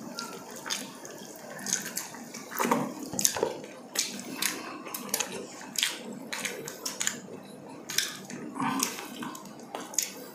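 Wet chewing and lip-smacking from people eating with their hands, an irregular run of sharp mouth clicks and smacks, with fingers picking apart yellowfin tuna.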